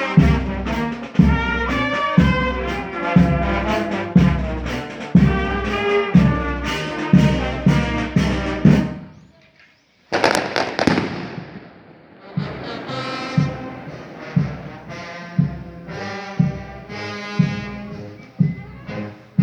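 Brass band playing a march, trombones and trumpets over a bass drum beating about twice a second. Just after the halfway point the music drops out briefly and a single loud firework bang goes off with a long hissing tail, then the band is heard again, softer.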